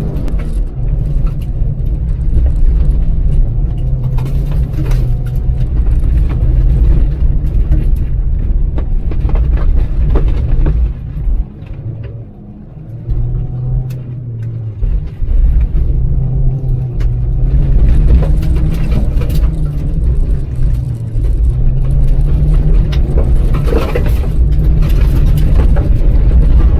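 Factory 4A-GE 1.6-litre twin-cam four-cylinder engine of a 1988 Toyota AE82 Corolla, driven hard and heard from inside the cabin, its pitch rising and falling with the throttle over a steady road noise from the dirt surface. Almost halfway through it goes quieter for a couple of seconds as the driver lifts off, then it pulls loud again.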